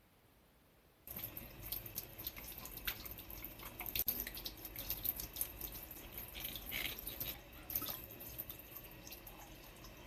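Tap water running and splashing, starting about a second in, with scattered light clicks and knocks, as the plastic dust cup of a cordless stick vacuum cleaner is rinsed under it.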